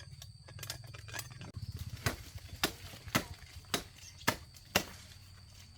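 Six sharp chops, evenly spaced about half a second apart, of a blade hacking through sugarcane stalks.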